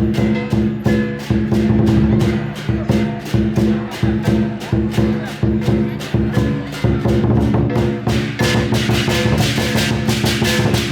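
Lion dance percussion: a large drum beating steadily at about three to four strokes a second, with ringing gong and cymbal tones. The cymbals grow louder and brighter about eight seconds in.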